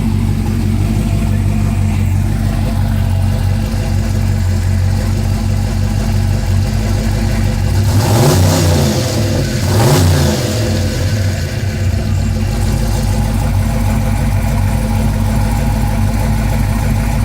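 Twin-turbocharged truck engine idling steadily on an untuned fresh turbo install, revved twice briefly about eight and ten seconds in, the pitch rising and falling each time.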